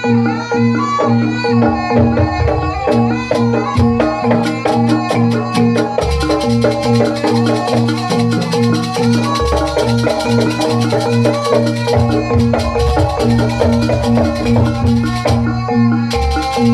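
Jaranan ensemble music played live: a steady repeating pattern of pitched gong-chime tones over a regular drum beat. About six seconds in, a fast run of high, sharp percussion ticks joins and carries on.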